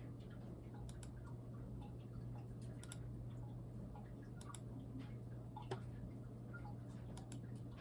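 Scattered, irregular clicks of computer keys being pressed, over a steady low hum.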